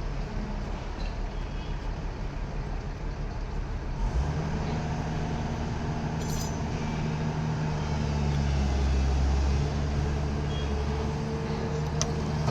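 An engine running with a low, steady hum that gets louder about four seconds in and then holds.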